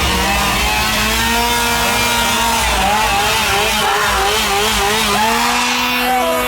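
Two-stroke chainsaw engine revving, held at high revs and then blipped rapidly up and down over and over.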